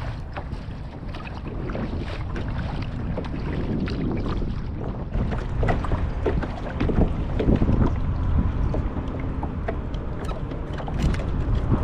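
Kayak paddling: the paddle blades dip and splash with scattered drips of water, under a steady rumble of wind on the microphone.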